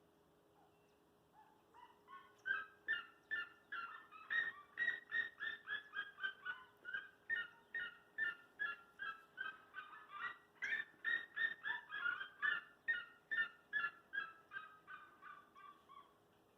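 Bird calling a long, rapid series of short repeated notes, about four a second, that builds up after a second or two and trails off near the end.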